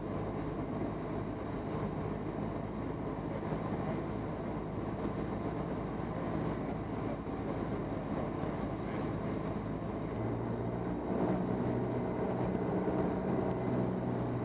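Cessna 172N's four-cylinder Lycoming engine droning steadily, heard from inside the cabin on approach to land. About ten seconds in, its note shifts and grows a little louder.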